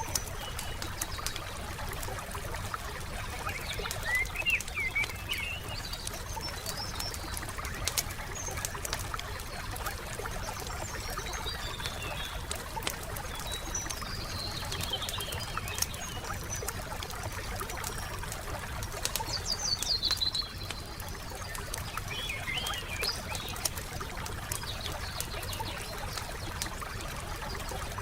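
Wood campfire crackling with a steady run of small pops and snaps. Songbirds chirp in short bursts of calls now and then, most clearly about 4 s in, around the middle, and near 20 s.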